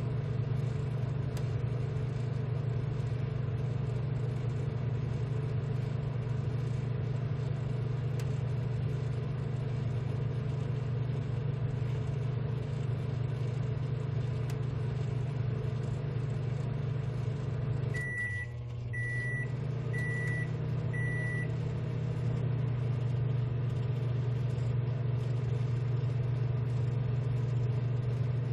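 Steady low hum of a BGA rework station's blowers and fans running. About two-thirds through, the hum dips and shifts slightly while the machine gives four short, evenly spaced high beeps.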